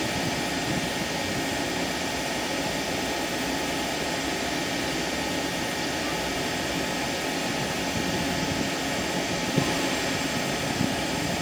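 Steady whooshing machine noise, like a large blower or engine running without change, with a couple of faint knocks near the end.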